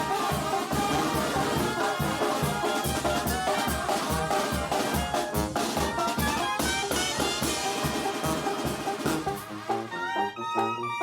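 Live Mexican banda brass band playing: trumpets and trombones over drums with a steady beat. Near the end the drums drop out, leaving the horns playing short notes.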